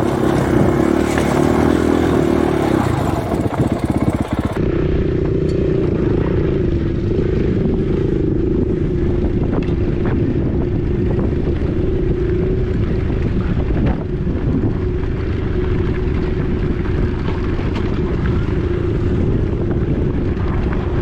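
Husqvarna 501 dirt bike's single-cylinder four-stroke engine running at a steady, even speed, with wind buffeting the microphone.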